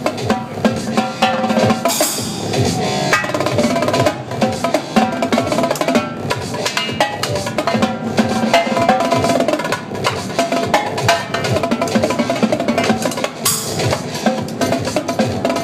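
Live drums and cymbals, rapid snare-style strokes and rolls, played over electronic dance music, with cymbal crashes about two seconds in and near the end.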